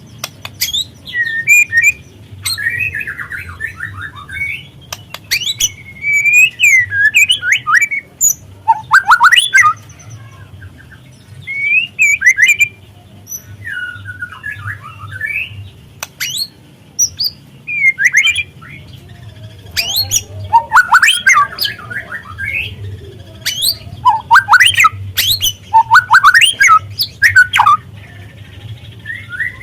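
White-rumped shama singing in repeated bursts of fast, varied whistled phrases mixed with sharp rattling clicks, a lure song meant to provoke another shama into singing. A steady low hum runs underneath.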